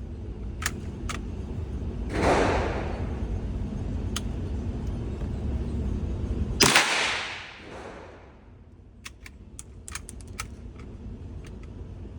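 .22 LR bolt-action rifle firing: the loudest sound is a sharp shot about six and a half seconds in, trailing off with an echo. A shorter burst comes about two seconds in, and light clicks are scattered before and after.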